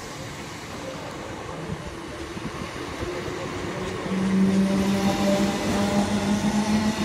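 Class 317 electric multiple unit train running past, growing louder, with a steady hum coming in about four seconds in.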